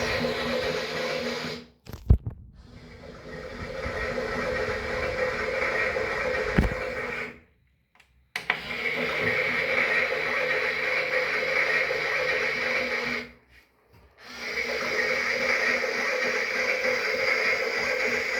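Toy washing machine's small electric motor running and churning the drum with a steady whirr. It stops three times, each time briefly, with a click around two seconds in, and then runs again.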